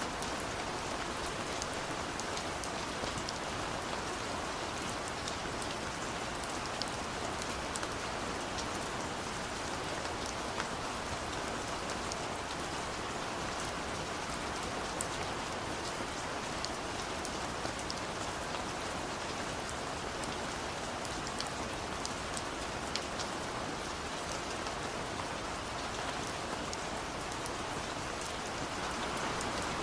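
Steady rain falling, an even hiss with many small scattered ticks of drops.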